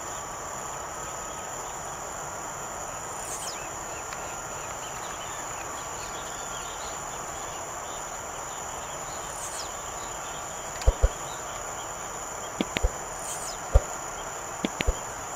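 Steady high insect trilling, with a short, high, buzzy note dropping in pitch three times, a few seconds apart: a young blue-black grassquit singing. Several sharp knocks in the last few seconds.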